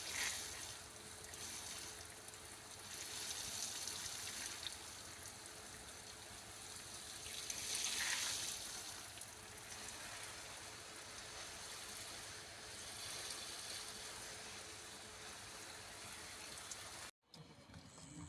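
Water running or pouring steadily, swelling louder twice, then cutting off abruptly near the end.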